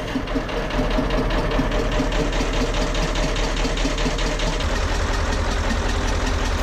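Caterpillar 3208 V8 marine diesel engine running just after starting, coming up to a steady run within the first second with a fast, even firing rhythm; a deeper drone comes in about four and a half seconds in. The owner says this engine has developed a noticeable knock and is burning more fuel.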